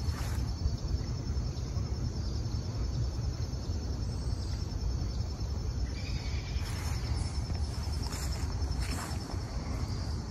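Insects trilling steadily outdoors, a fast, even, high-pitched pulsing that never stops, over a constant low rumble. A few short scuffs come through, around the middle and near the end.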